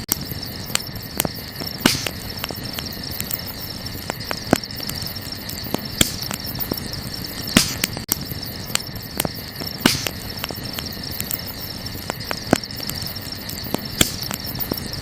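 Wood campfire crackling, with irregular small snaps and several louder pops a few seconds apart, over a steady high insect chirring.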